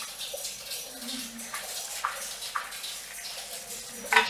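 Water running and splashing at a salon hair-wash basin, with a few sharper splashes, the loudest near the end, over a steady hiss of rain on a metal roof.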